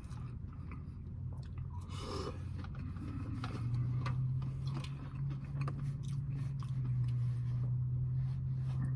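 A person chewing a mouthful of pizza tots (tater tots topped with mozzarella, marinara and pepperoni), with many small irregular mouth clicks and bites. A steady low hum runs underneath and grows louder about three and a half seconds in.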